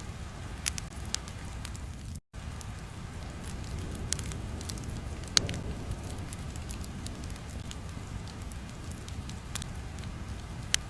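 Crackling fire ambience: a steady low rumble with scattered sharp pops and snaps, the loudest about five seconds in. The sound cuts out completely for a moment about two seconds in.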